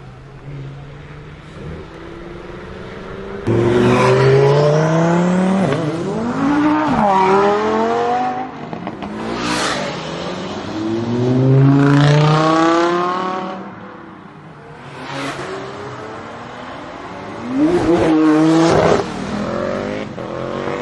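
High-performance car engines accelerating hard in several separate loud pulls, each starting suddenly, the engine pitch climbing and then dropping back at gear changes.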